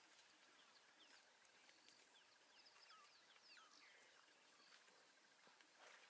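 Faint wild birdsong: many short chirps and whistling notes from small birds, over a steady fast pulsing trill in the background.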